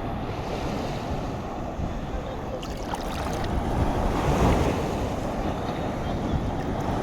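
Sea waves washing in with a steady rush, one surge swelling louder about four seconds in, and wind buffeting the microphone.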